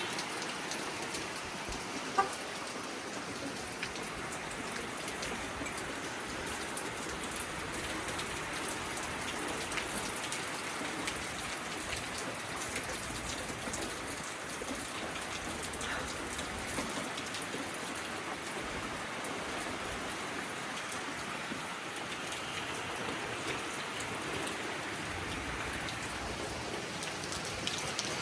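Heavy rain pouring steadily, with one brief sharp tap about two seconds in.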